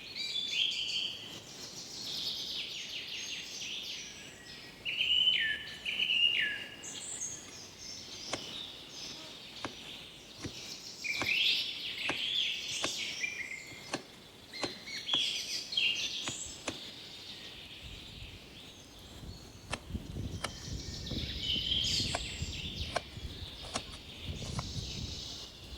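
Birds singing and chirping in repeated short phrases, with scattered sharp clicks and knocks and a low rumble in the last several seconds.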